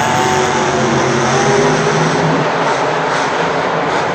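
Monster truck engine running loud, its pitch wavering slightly over the first couple of seconds before the sound settles into a steady, even noise.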